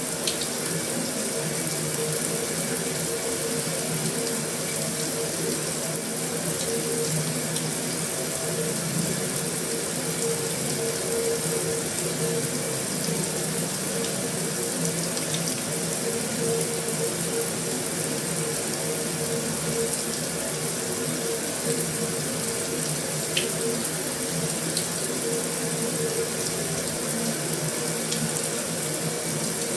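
Heavy rain falling steadily on a metal roof: a constant, even hiss, with a few faint sharper drop ticks here and there.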